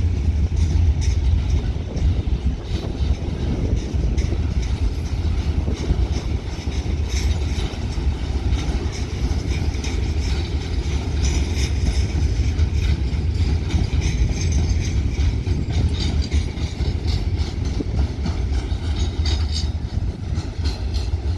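Train rolling past, a steady heavy low rumble with irregular clicks and clatter from the wheels on the rails.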